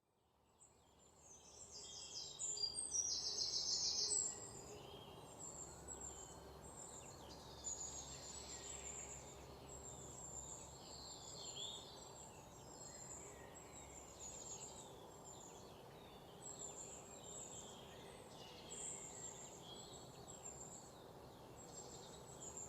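Birds chirping and calling, with many short high calls and a busier burst of rapid calls a couple of seconds in, over faint steady low background noise.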